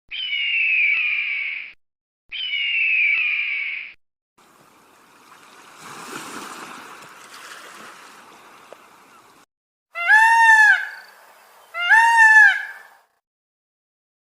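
Animal calls: two harsh, slightly falling cries in quick succession, a few seconds of faint rushing noise, then two shorter cries that rise and fall in pitch.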